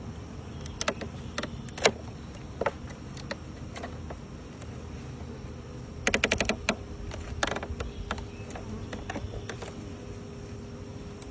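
Scattered clicks and knocks from handling wooden beehive equipment, with a quick rattle of about ten clicks about six seconds in. From about seven and a half seconds on, a steady hum of honeybees buzzing comes in.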